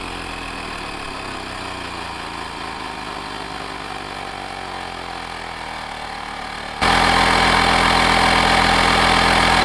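Cordless portable air inflator's small compressor running steadily while pumping up a motorcycle tyre, its pitch sinking slightly as it works. About seven seconds in it suddenly gets louder, and it cuts off right at the end, shutting off automatically at the preset pressure.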